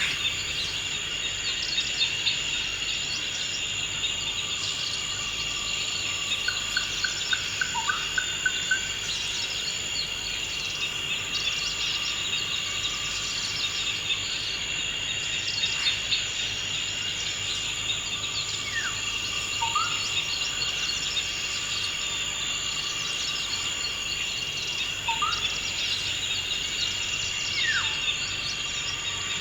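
Steady insect chorus, a continuous high-pitched drone, with occasional bird calls over it: a short rapid trill about a quarter of the way in and a few brief whistled slurs later.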